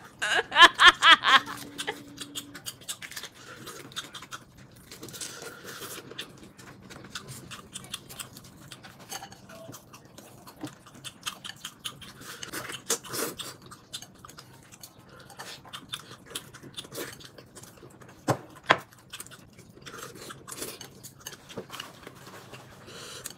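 Close-miked chewing while eating: irregular soft smacks and small wet clicks from the mouth, kept up throughout.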